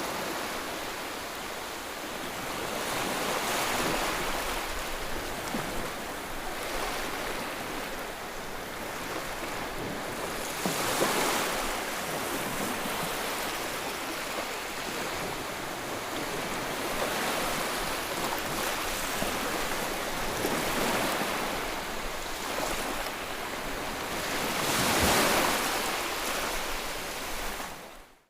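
Steady rushing white noise that swells and eases every several seconds, like surf. It cuts out suddenly for a moment near the end.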